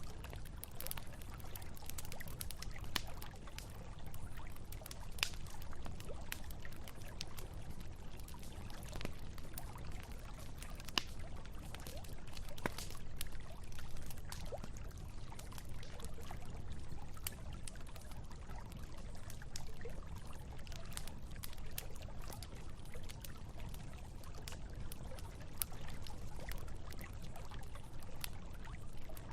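Campfire wood crackling with frequent sharp pops, scattered irregularly over the steady rush of a flowing river.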